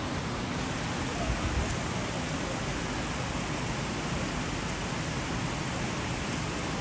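Heavy monsoon rain falling steadily, a dense, even hiss of rain on leaves, stone and ground.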